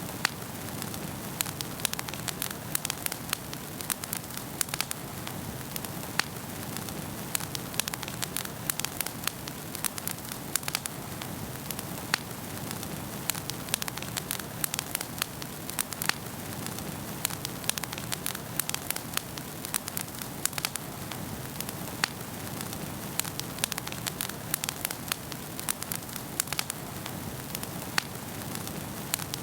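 Wood fire burning in a fireplace: a steady soft hiss with irregular sharp crackles and pops, several a second.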